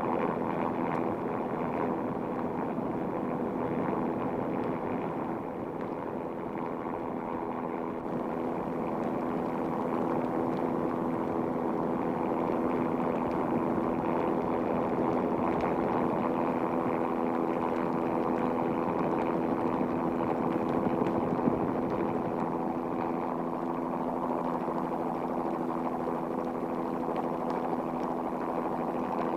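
Formula One car engines running at a steady, unchanging pitch, with a watery hiss underneath.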